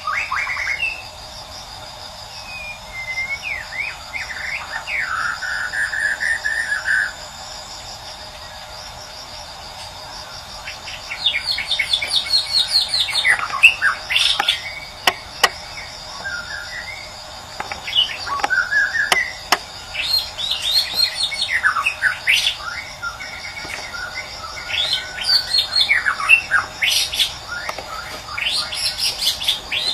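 Songbird song in quick whistled phrases with rising and falling sweeps, played as a lure to set a silent white-rumped shama singing. It comes in a short burst, pauses briefly, then runs densely through the second half, over a steady high insect trill.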